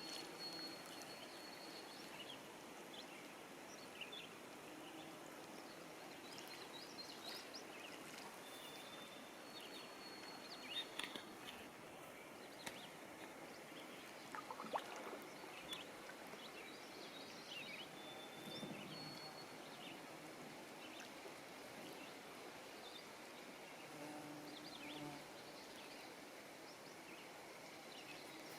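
Quiet outdoor lake ambience: a soft steady hiss with faint, scattered chirps and short whistled calls of birds, and a few light ticks.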